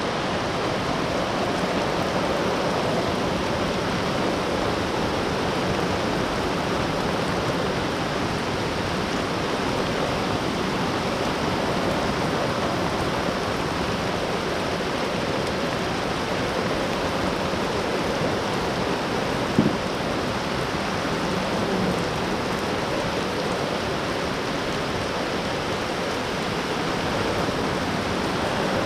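Steady rain falling, an even, unbroken hiss, with one brief sharp tap a little past two-thirds of the way through.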